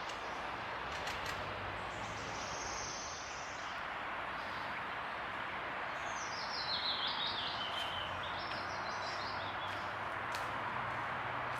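Outdoor ambience with a steady background hiss of noise. A songbird sings a short high phrase, then about six seconds in a longer chirping trill that steps down in pitch.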